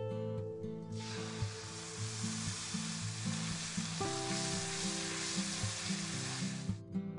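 Beaten yogurt sizzling as it hits hot spiced mustard oil in a nonstick wok and is stirred with a wooden spatula. The sizzle starts about a second in and stops abruptly near the end, over acoustic guitar background music.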